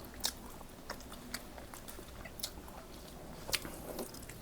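Close-up eating sounds: food being chewed, with scattered short, sharp clicks and smacks.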